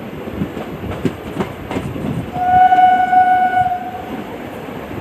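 Train running on the rails, with rhythmic wheel clacks over the rail joints early on, and one steady horn blast of about a second and a half in the middle.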